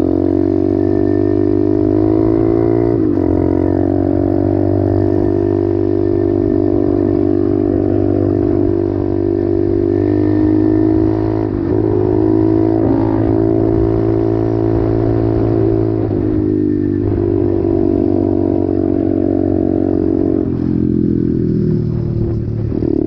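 Apollo RFZ 125cc pit bike's single-cylinder four-stroke engine running steadily under way, with a few brief dips in pitch and easing off near the end.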